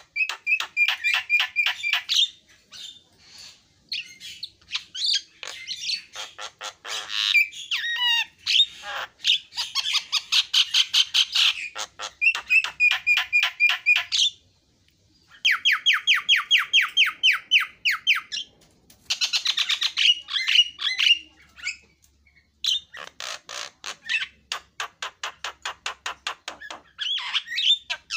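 Javan myna singing: phrases a few seconds long of fast, rapidly repeated harsh chattering notes, with a few whistled glides among them, broken by brief pauses.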